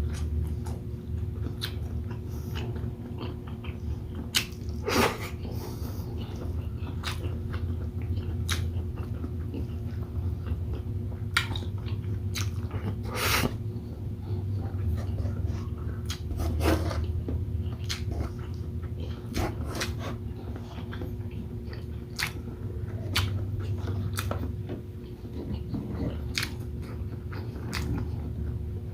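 Close-miked mukbang eating of shrimp and squid in coconut sauce with rice: chewing and biting with frequent sharp, wet mouth clicks and smacks. A steady low hum runs underneath.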